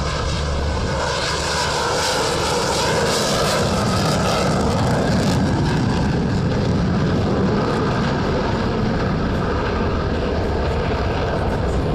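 F-16 Fighting Falcon jet engines running loud and steady.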